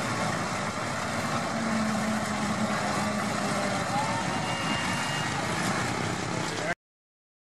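Antique tractor engines running steadily amid crowd chatter, cutting off suddenly to silence near the end.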